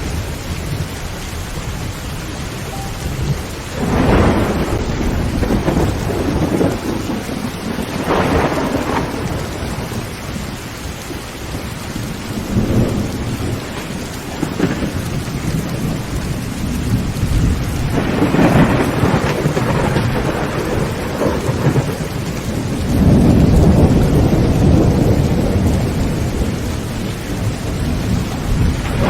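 Heavy rain drumming steadily on a tin tent roof, with several rolls of thunder rumbling through it; the longest and loudest roll comes near the end.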